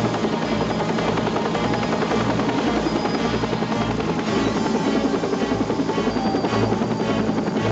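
Rescue helicopter's rotor and engine noise, mixed with background music that has a steady beat pulsing about once a second.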